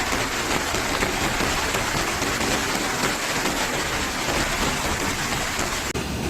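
Heavy rain falling, a dense, steady hiss that changes abruptly near the end.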